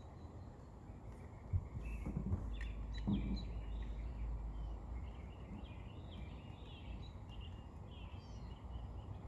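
Small birds chirping repeatedly over a steady low rumble, with a few light knocks in the first three seconds.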